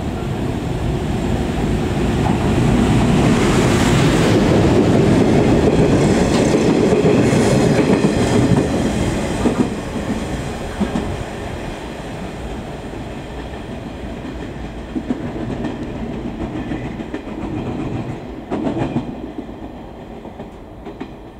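Locomotive-hauled train delivering new railcars passes through the station. The rumble of the locomotive and wheels builds to its loudest a few seconds in. The wheels then clatter over rail joints as the cars go by, and the sound fades as the train moves away.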